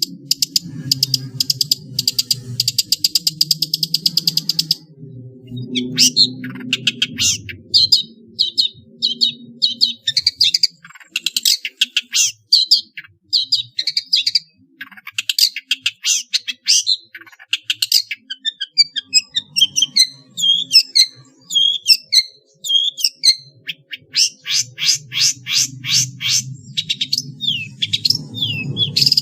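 Long-tailed shrike (pentet) singing a varied song full of mimicry: fast sparrow-like chattering trills, separate sharp chirps and short down-slurred whistles. A rapid trill opens the song and another comes near the end.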